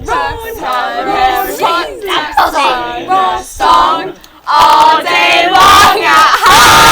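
Several voices singing a cappella, their pitches sliding and wavering; a little over four seconds in they break into a loud, sustained group shout that is held to the end.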